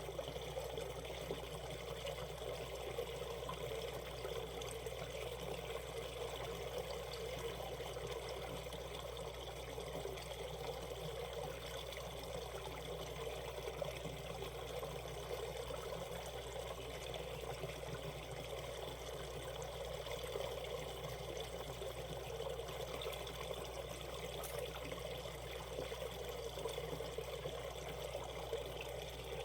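Shallow valley stream running over a rocky riffle: a steady, even rush of flowing water.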